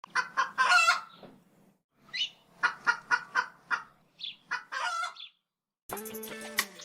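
Chicken clucking: short sharp calls, with a quick run of clucks at about four a second in the middle. Music comes back in near the end.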